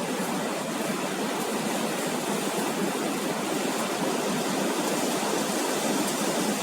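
Surf at a sandy beach: a steady, even rush of breaking and washing waves with no distinct single crashes.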